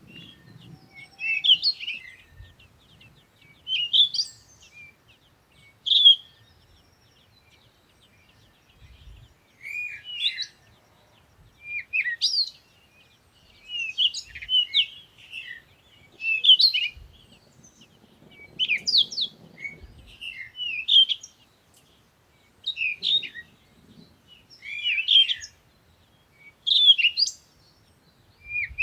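A small bird chirping: short, high phrases of quick sweeping notes, repeated about every one to two seconds.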